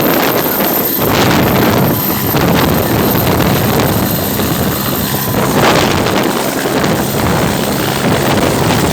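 Air ambulance helicopter running, its rotor and turbine making a steady loud noise, with wind buffeting the microphone.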